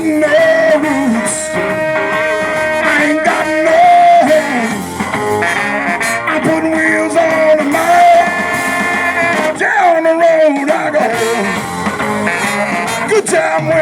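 Live blues-rock band playing, with a lead melody of long held notes that bend in pitch over the band.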